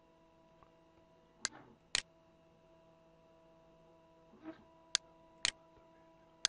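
Computer mouse buttons clicking sharply, two clicks about a second and a half in and two more around five seconds in, each pair about half a second apart, with another at the very end. Underneath is a faint steady electrical hum.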